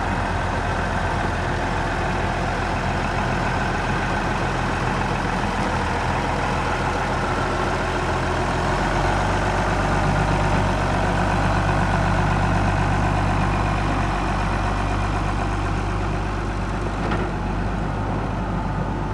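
Case IH 7210 tractor's diesel engine running steadily, its note changing and getting a little louder about halfway through.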